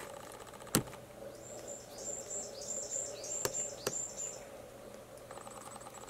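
A small bird calling a quick run of about eight high, thin notes, starting about a second and a half in. A single sharp knock sounds near the start, and two fainter taps come midway.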